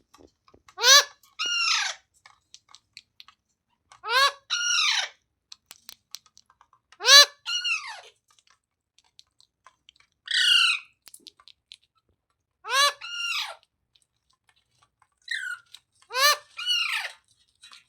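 Green ringneck parrot calling about every three seconds, six calls in all. Most are short two-note calls that rise and then fall in pitch, and one near the middle is a single higher note.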